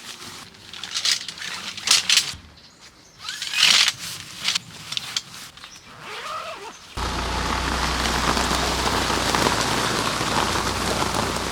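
Scattered knocks and rustling, then about seven seconds in a sudden switch to steady, fairly loud rain with a low rumble underneath.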